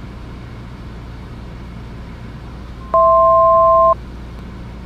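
Steady drone of a Cessna 172S Skyhawk's engine in the cabin. About three seconds in, a loud electronic cockpit alert tone of two steady notes sounds together for about a second and cuts off abruptly.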